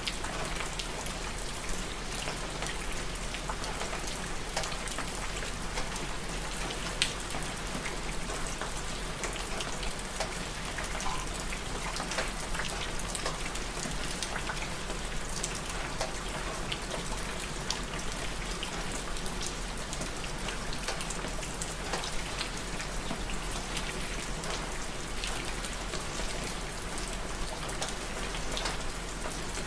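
Steady rain falling on a surface, a dense even patter of drops with scattered louder individual drop hits, one sharp hit about seven seconds in.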